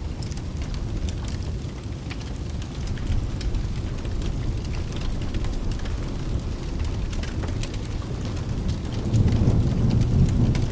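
Rain with a low rolling thunder rumble that grows louder about nine seconds in, over scattered small crackles of a wood fire.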